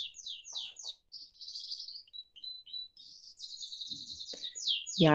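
A bird singing: a run of quick, high falling chirps, a short thin whistled note about two seconds in, then more rapid chirping. A voice starts just before the end.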